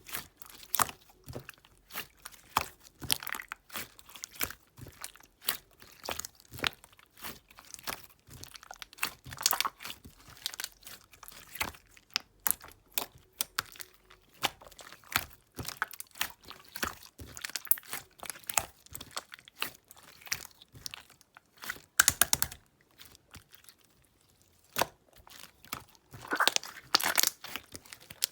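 Clear jelly-textured slime being squished and pressed by hand, making a string of sticky clicks and pops, with louder clusters of crackling about 22 seconds in and again near the end.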